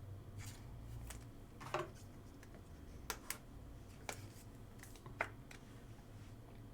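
Trading cards being handled and flipped through: faint, scattered clicks and short rustles as cards slide and tap against one another, about eight in all.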